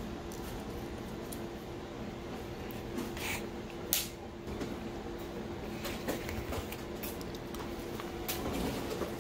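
Close-up eating sounds: wet chewing and mouth noises with scattered small clicks and knocks, over a steady low hum.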